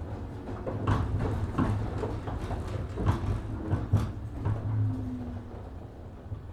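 Cabin running noise of a JR 103 series 1500 electric multiple unit at low speed: a low hum with a run of irregular clacks and knocks from the wheels and car body. The running noise dies away toward the end.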